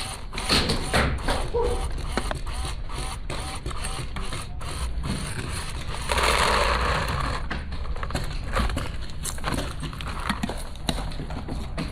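Wind buffeting the microphone as a steady low rumble, with scattered sharp clicks and rattles throughout and a louder rushing gust about six seconds in.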